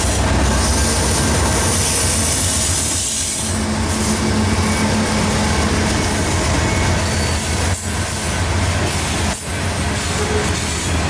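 Several Norfolk Southern diesel-electric freight locomotives passing close at speed: engines running with a steady low drone over the rumble of steel wheels on rail. Near the end the covered hopper cars behind them roll by with wheel and rail noise.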